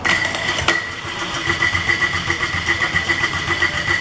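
Rebuilt Kubota diesel engine being cranked by its starter motor: a steady whine with even rhythmic pulses, picking up again right at the start. It is turning over without firing, to bleed air out of the fuel system.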